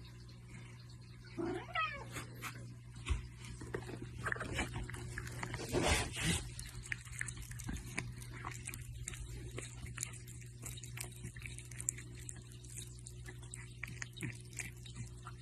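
Domestic cat vocalising: a short rising meow about a second and a half in and a louder cry around six seconds in, over a steady low hum and scattered small clicks.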